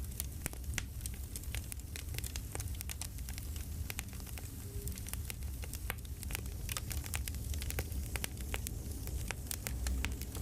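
Crackling campfire: irregular sharp pops and snaps from burning wood over a steady low rumble and hiss.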